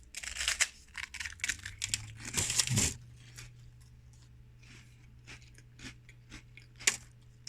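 A crisp, chocolate-filled fish-shaped wafer being bitten and chewed close to the microphone: dense crunching for about the first three seconds, then only scattered small crackles, with one sharper click near the end. A low steady hum sets in about three seconds in.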